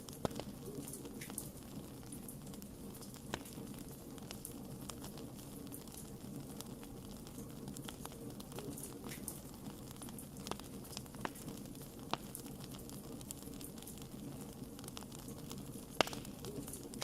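Wood campfire burning with a steady low rush, and scattered sharp crackles and pops from the burning wood. The loudest pop comes near the end.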